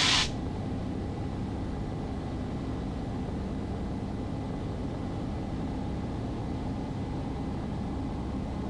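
Cessna 150's four-cylinder Continental O-200 engine and propeller droning steadily in the cabin on approach, carb heat on. A brighter hiss cuts off just after the start.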